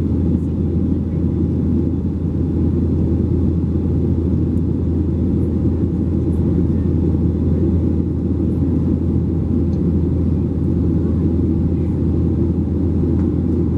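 Steady, loud low rumble of engine and airflow noise heard inside the cabin of a Boeing 737-700 with its CFM56-7B engines running, unchanging throughout.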